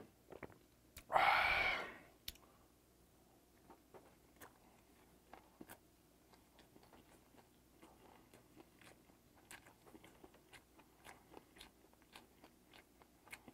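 Faint, close-miked chewing of a mouthful of steamed ray (gaori-jjim): many small wet mouth clicks. There is a short breathy sound about a second in.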